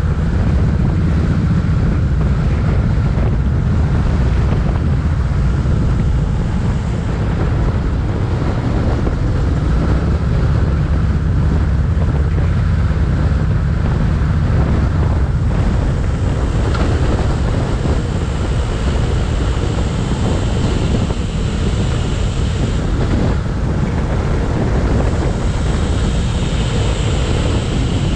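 Wind rushing over the microphone of a moving motorcycle, a steady low rumble with the motorcycle's engine running underneath.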